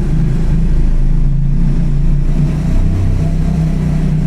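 Triumph Scrambler's parallel-twin engine running as the motorcycle rides along, its note fairly steady and shifting a little about three seconds in.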